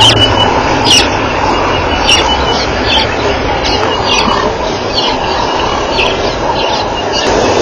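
Short, sharp bird chirps, roughly one a second, over a steady rushing background noise.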